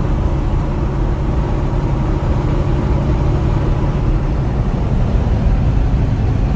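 Steady engine drone and road noise heard inside a vehicle's cab while it drives along a highway.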